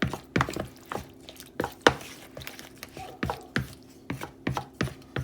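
Chicken pieces being stirred in a bowl of wet marinade (garlic, ginger and chicken stock), the utensil knocking and clicking against the bowl irregularly, about two to three times a second.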